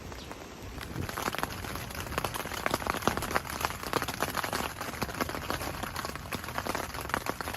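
Heavy rain falling, a dense, irregular stream of drops hitting a surface close to the microphone; it thickens about a second in.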